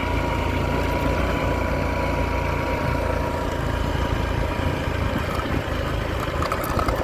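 Vehicle engine running steadily at low revs, with tyres on a muddy dirt road going downhill. The low rumble carries a thin steady whine, and there are a few light clicks near the end.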